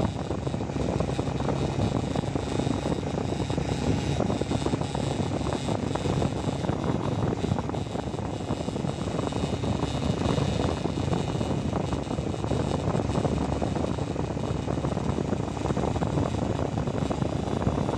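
Motorcycle running steadily on the move: a constant engine hum under a dense rush of wind and road noise.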